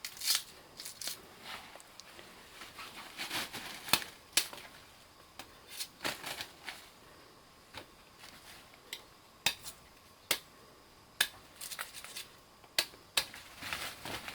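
Irregular sharp clicks and taps, one to three a second, from hard objects being handled.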